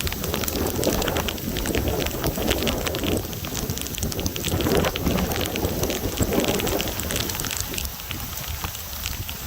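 Heavy thunderstorm rain pouring down, with many drops ticking sharply close to the microphone, over a low rumble of gusting wind that swells and eases, slackening a little near the end.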